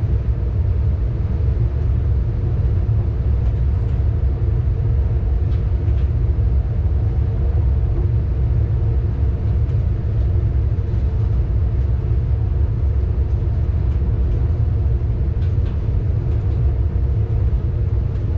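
Train running at speed, heard from inside the driver's cab: a loud, steady low rumble with a faint hum over it and a few light clicks.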